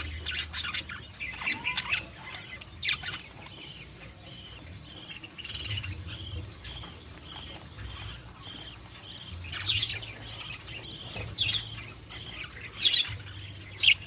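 Budgerigars (parakeets) chirping and chattering, with sharper squawks near the start and end. In the middle comes a run of short, evenly spaced chirps, about two a second.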